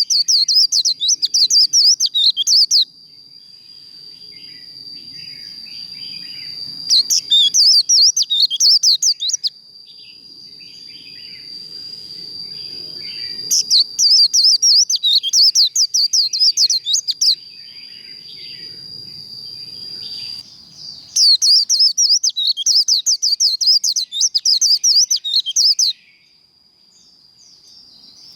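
White-eye birds singing the fast, tumbling 'líu' song in four loud bouts of a few seconds each, with softer scattered chirps and a thin steady high tone between the bouts.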